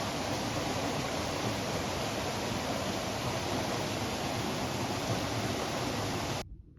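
Steady, even rushing outdoor noise that cuts off abruptly about six and a half seconds in.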